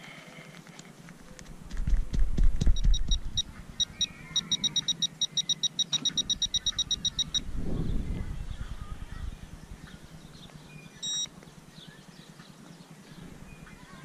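Metal detecting pinpointer beeping in a rapid pulsing train, about six or seven short high beeps a second, as it sits over a buried target, then one short beep later on. Low thumps and rustling of handling in the dirt come before and after the beeping.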